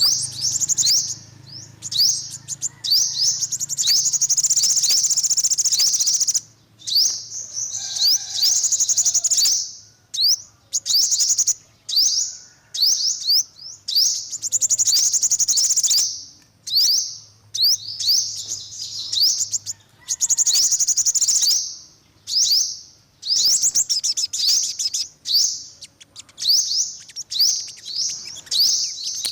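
Sunbird singing: rapid, high-pitched twittering trills in bursts lasting one to a few seconds, with short pauses between them.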